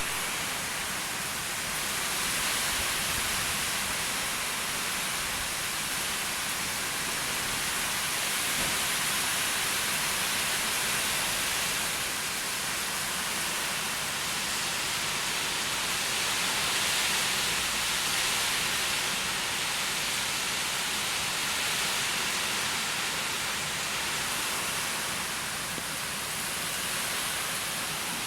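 Heavy wind-driven rainstorm: a dense, steady hiss of pouring rain that swells and eases slightly every few seconds.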